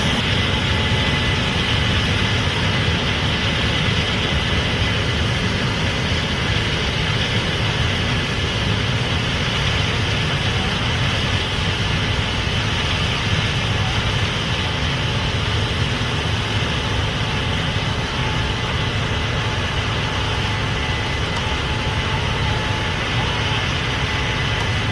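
Case IH Axial-Flow 8250 combine running steadily while harvesting corn: a constant loud machine noise with a faint steady whine.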